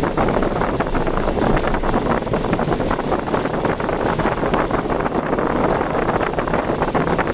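Steady noise of a car driving through typhoon weather: road and wind noise with a continuous crackling patter.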